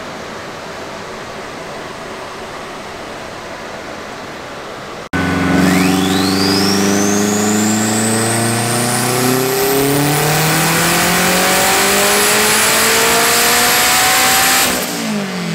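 A steady hiss for about five seconds. Then a turbocharged Honda Civic four-cylinder makes a full-throttle pull on a chassis dyno: the engine note climbs steadily through the revs while a turbo whistle sweeps sharply up in pitch. It lets off near the end.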